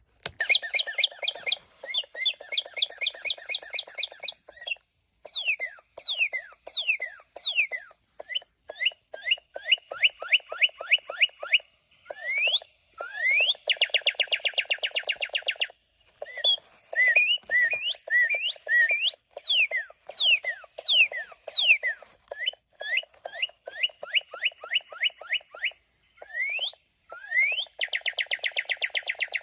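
Pan Asian Creations electronic toy bird in a cage, chirping and singing. Quick rising and falling whistles and fast, evenly repeated trills run in short phrases separated by brief pauses.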